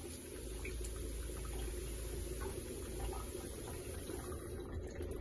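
Water running steadily from a camper van's shower fixture, with small spits now and then as air purges from the hot water line after un-winterizing.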